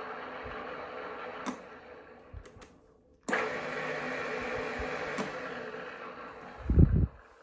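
Geared-head drill press (Huvema HU 25 TK) running with a steady gear whine. It is switched off with a click and spins down, then starts again abruptly a couple of seconds later, runs, and winds down near the end, followed by a heavy low thump.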